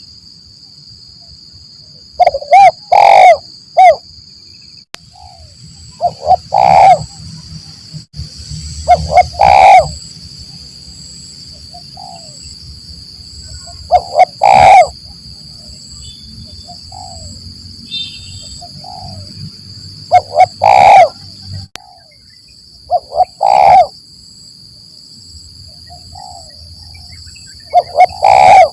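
Spotted dove (tekukur) cooing: loud, low coo phrases repeated every few seconds. Behind them runs a steady high-pitched drone of insects.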